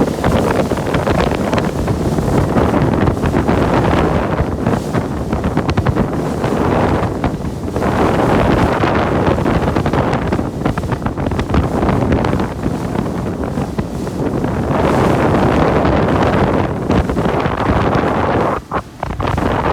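Wind buffeting the microphone on a moving small boat, with the rush of water around the hull. It comes in irregular surges and drops away briefly near the end.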